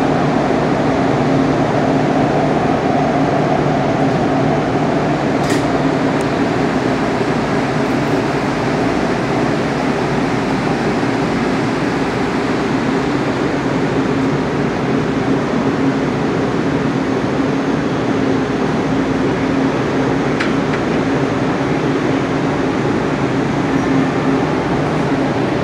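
Light rail train running in an underground tunnel, heard from inside the car: a steady rumble of wheels and motors with a low constant hum, and a single brief click about five seconds in.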